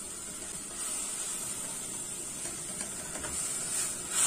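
Chopped tomato, bell pepper and onion sizzling steadily in an aluminium pot while a spoon stirs them, with a few faint scrapes in the second half.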